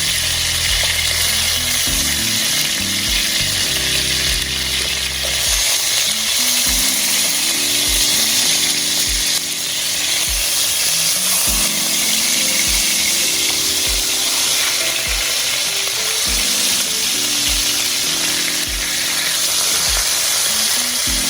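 Hot pan with chicken drippings and oil sizzling steadily, over background music with a low beat about once a second.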